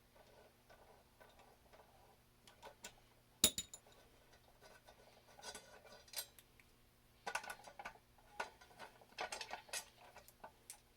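Scattered light metal clicks and clinks of tools and motorcycle brake-rotor parts being handled, with one sharp ringing clink about three and a half seconds in.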